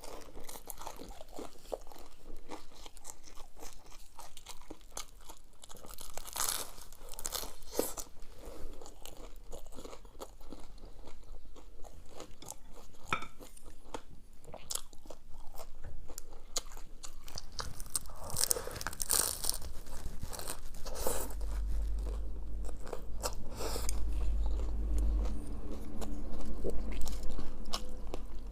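Close-miked eating sounds: crunchy bites and chewing, many short crackles in a row. A low rumble runs under them for several seconds in the second half.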